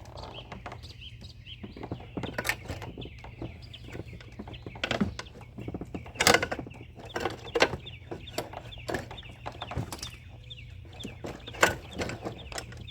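Irregular sharp knocks and clicks, a few of them loud, from hand tools and parts being handled while working in a pickup truck's engine bay, over a steady low hum.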